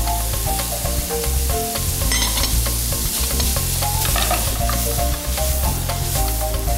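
Grated green papaya and Vigan longganisa sizzling in a hot frying pan as they are stirred, with scattered clicks of the spatula against the pan. Background music plays underneath.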